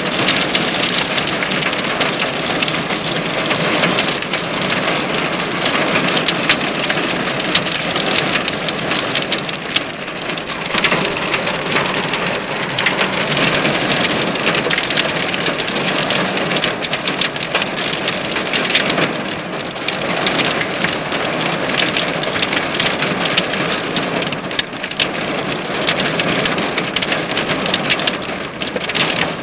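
Heavy hail pelting down, a dense steady clatter of countless small impacts.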